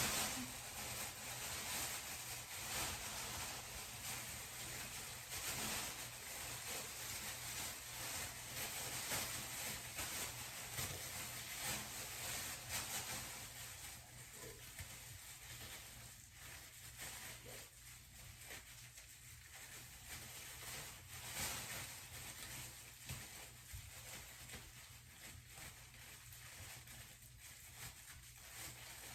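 Faint, irregular rustling and squishing of gloved hands working box hair dye through hair, fading somewhat about halfway through.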